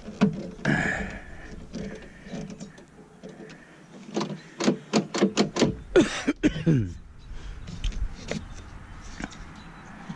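Handling noise from truck door parts. About halfway in comes a quick run of about seven sharp clicks and taps, with scattered knocks and rustles around it.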